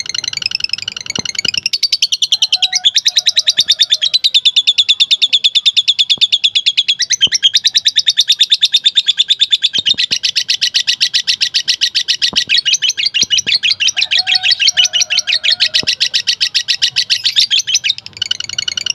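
Lovebird 'ngekek' song: a long, unbroken chattering trill of very fast, sharp, high-pitched notes, with brief shifts in its rhythm about two to three seconds in and again about seven seconds in.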